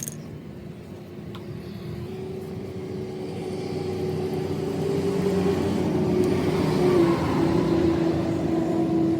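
A vehicle engine running with a steady hum that grows louder over several seconds, then holds steady.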